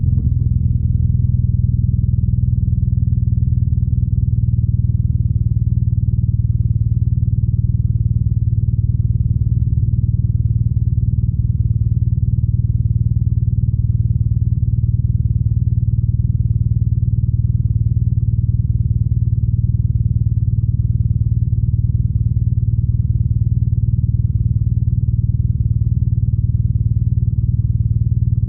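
BMW R nineT's air/oil-cooled boxer twin engine running at a steady speed: a low, even exhaust note with little in the upper range.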